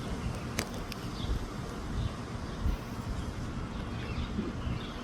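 Wind buffeting the microphone: a gusty low rumble, with a few sharp clicks near the start.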